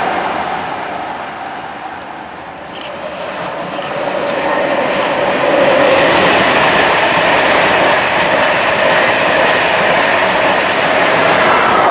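A train passing at speed: a steady rushing rail noise with a faint whine. It dips slightly about two seconds in, then builds again and holds.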